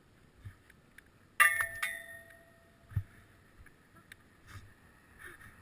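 Sharp metallic clink from a bicycle that rings on briefly, struck twice about half a second apart, followed a second later by a dull thump.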